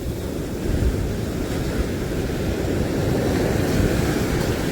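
Wind buffeting the microphone in a low, unsteady rumble, over the wash of sea surf.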